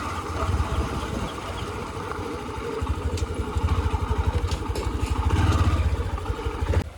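Diesel engine of a JCB 3DX backhoe loader running as it travels, with a fast low beat that grows louder in the second half and drops off suddenly just before the end.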